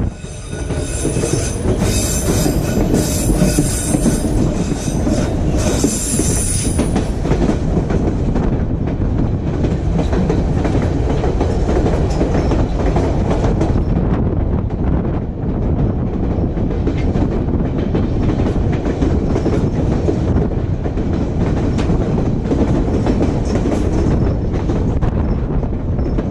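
Train running on the rails with a steady rumble and clatter. High-pitched wheel squeal sounds for the first several seconds, then fades.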